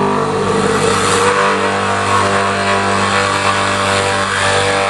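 Handheld electric drill running steadily under load, boring a hole into a wooden board.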